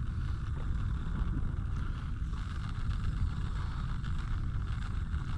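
Wind buffeting the microphone on open water: a steady low rumble with a constant hiss over it.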